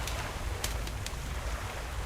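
Ocean waves washing steadily with a low rumble, with a campfire crackling over them: two sharp pops about two-thirds of a second and a second in.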